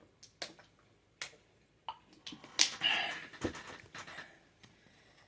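Sharp mouth clicks and smacks, then a heavy, breathy exhale about halfway through, a reaction to the burn of spicy ramen.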